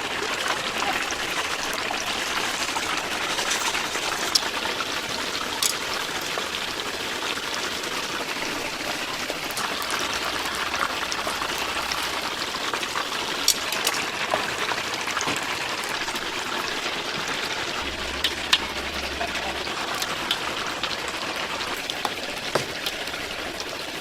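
Chicken deep-frying in a vat of hot oil: a steady, rain-like sizzle with scattered sharp pops and crackles.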